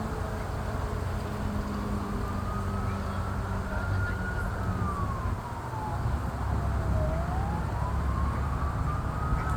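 An emergency vehicle siren wailing, its single tone sliding slowly up and down over several seconds at a time, over a steady low rumble.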